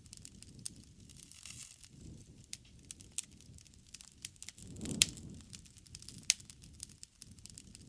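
Wood fire crackling, with a steady low flutter of flame and frequent small sharp pops. A louder pop comes about five seconds in, just after a brief swell of flame noise, and another a little after six seconds.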